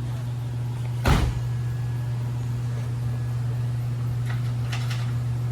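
A car door shuts with a single loud thud about a second in, over a steady low engine hum. Two faint clicks follow near the end.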